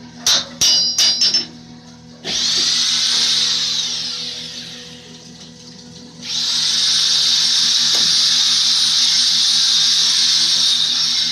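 Hydraulic drive of a Lego interlocking-brick press: a few sharp metallic clicks, then a loud, high hissing whine that starts about two seconds in and fades away. It starts again about six seconds in and holds steady.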